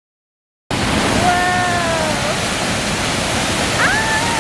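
Steady, loud rush of a waterfall, starting abruptly a little under a second in. Over it, a voice makes two long drawn-out sounds, one around a second in and one near the end.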